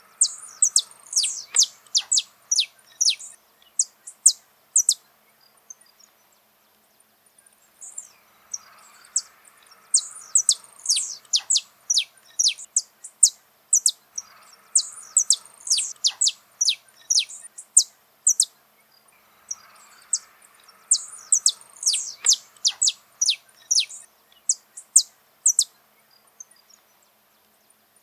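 Saffron finch (canário-da-terra) singing: bouts of quick, sharp, high chirps that sweep downward, about five bouts of several seconds each separated by short pauses.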